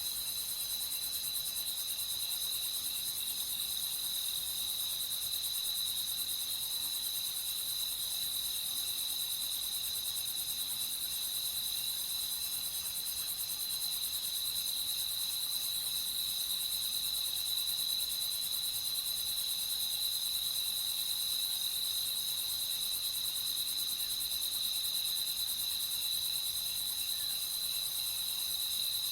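Night insects chirring, a dense chorus of crickets making a steady high-pitched trill that holds unbroken, over a faint high hiss.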